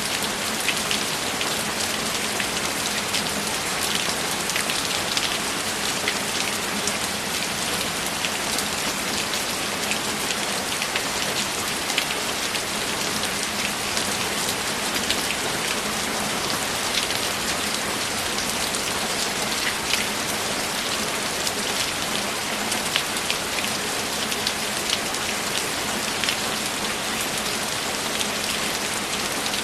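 Steady rain, an even hiss with many individual drops ticking sharply against a hard surface.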